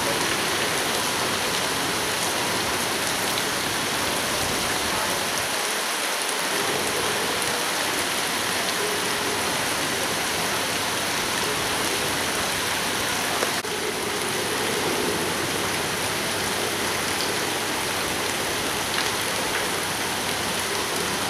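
Steady heavy rain falling, an even hiss of drops hitting the ground and surfaces.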